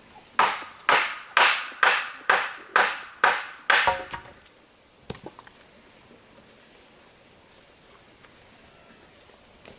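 Eight quick, evenly spaced blows of a tool on wood, about two a second, then they stop.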